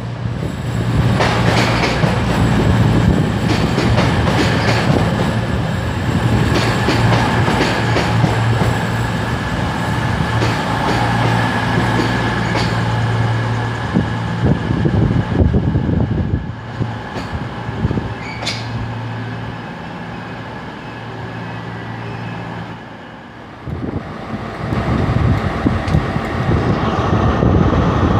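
Diesel train running through the station: a steady low engine drone with wheels clicking over rail joints. The drone fades partway through and swells again near the end.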